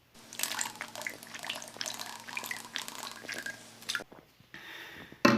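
Water running and splashing, with scattered small clicks and clinks over a faint steady hum. The sound changes to something quieter about four seconds in.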